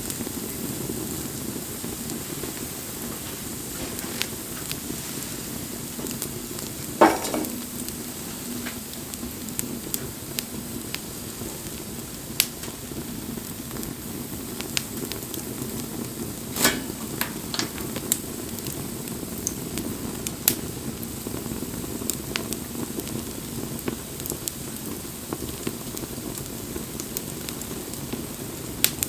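Wood bonfire burning: a steady low rush of flame with scattered crackles and pops, the loudest about seven seconds in and another near seventeen seconds.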